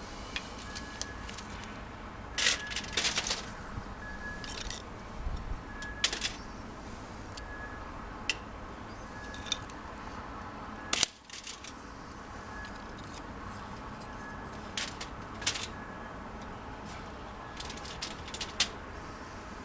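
Wood fire of dried logs and twigs crackling in a washing-machine-drum fire pit: irregular sharp snaps and pops over a steady hiss, with a few louder cracks.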